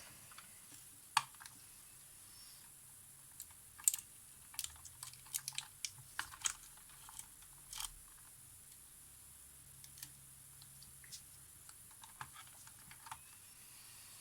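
Scattered light clicks and taps of small tools and parts being handled on a workbench, most frequent in the middle, over a faint steady hum.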